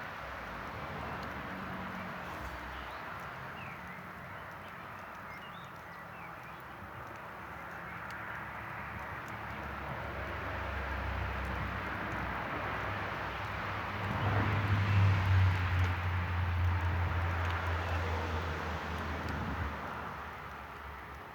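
Campfire burning with a steady hiss and a few faint crackles. A low rumble builds about halfway through, is loudest a little after that, and fades near the end.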